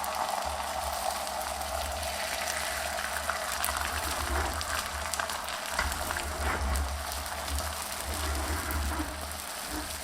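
Food sizzling in a hot pan: a steady hiss with scattered small crackles.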